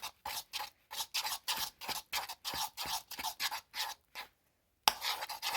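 Clear-glue slime with metallic activator being stirred in a container, just starting to turn to slime: rapid scraping, sticky strokes, about three or four a second. The strokes pause briefly about four seconds in and resume with a sharp click.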